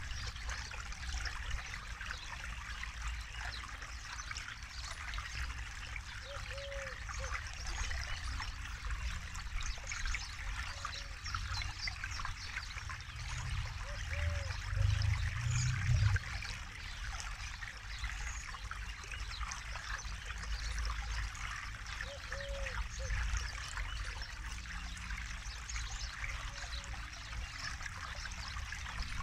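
Forest river flowing over stones, a steady babbling trickle of water with a low rumble underneath that swells briefly about halfway through.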